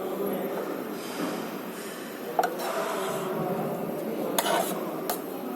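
A few sharp clinks of tableware during a meal, three in all, over a low steady background murmur.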